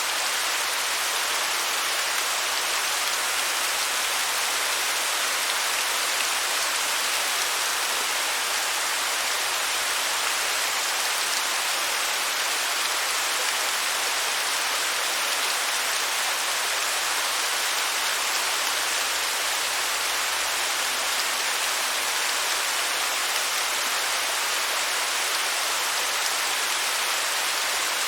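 Steady, even rush of falling water, a hiss with little low rumble and no change throughout.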